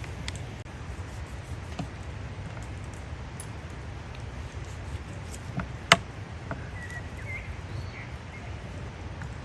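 Campfire crackling outdoors over a steady low rumble, with scattered small ticks and one sharp pop about six seconds in. A bird chirps faintly near the end.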